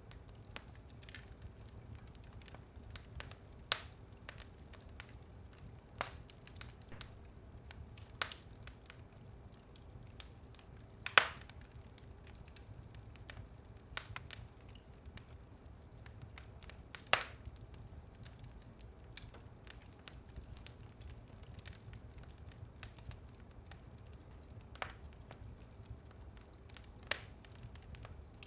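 Wood fire burning in a fireplace, crackling with sharp pops every few seconds over a low steady rumble. The loudest pop comes about eleven seconds in.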